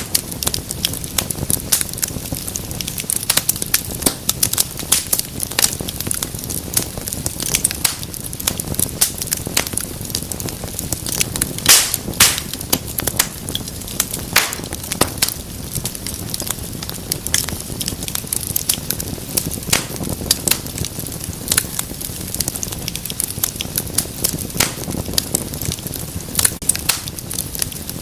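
Wood fire crackling in a fireplace: frequent irregular sharp pops and snaps over a steady low rush of flame, with one louder pop about twelve seconds in.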